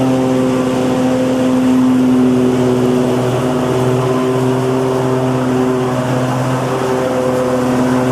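Lawnmower engine running steadily at a constant speed, with a strong low hum and a haze of noise over it.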